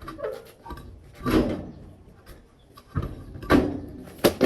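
A series of sharp knocks and clunks: a few separate hard impacts, the loudest about a second and a half in and three and a half seconds in, with a quick pair near the end.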